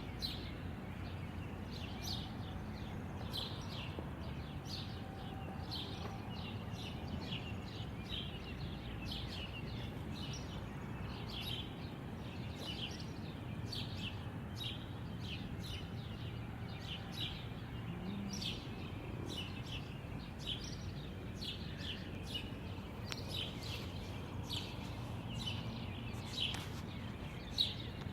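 Small birds chirping: a dense run of short, high chirps, several overlapping, over a steady low background rumble.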